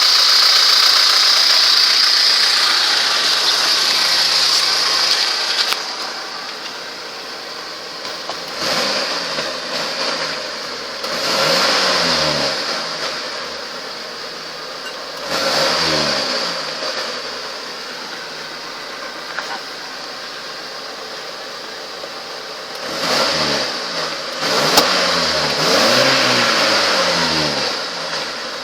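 Carburetted ZMZ-406 inline-four engine running. It drops back to idle after the first few seconds, then the throttle is blipped about five times, the revs rising and falling back each time. The engine is being run to bring out a suspicious dull knock.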